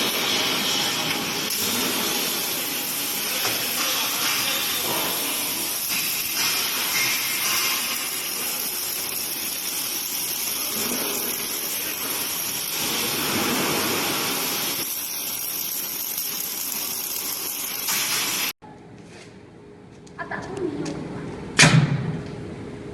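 Welding arc from an automated robotic welder, hissing and crackling steadily, then cut off abruptly about 18 seconds in. A quieter stretch follows, with a single sharp click near the end.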